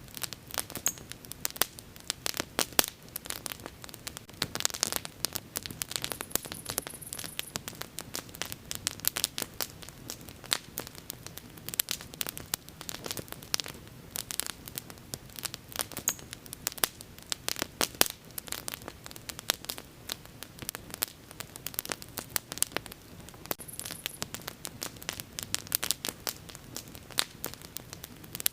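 Wood fire burning with dense, irregular crackling and popping over a low hiss.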